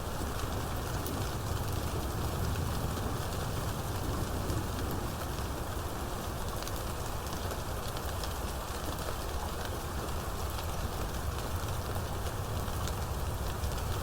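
Steady heavy rain falling, with a low rumble underneath and a fine patter of drops.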